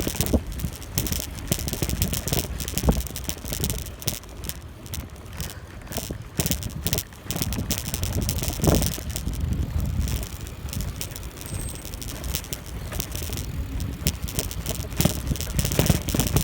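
Bicycle rattling and clicking over bumps while riding, with wind rumbling on the microphone.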